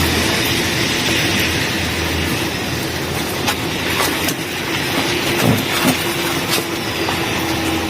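Bicycle rolling on a wet road: a steady rushing noise of tyres and wind with scattered rattles and clicks, and a steady low hum that sets in about three seconds in.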